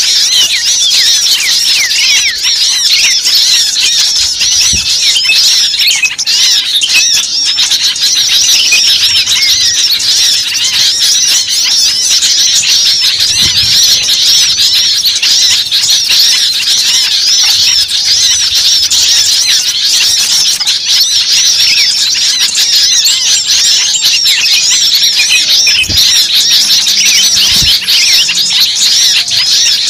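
Bird-lure recording of many small songbirds chattering and calling at once: a dense, loud, unbroken mass of quick high chirps and squeaky notes, the agitated 'ribut' chorus used to draw small birds in.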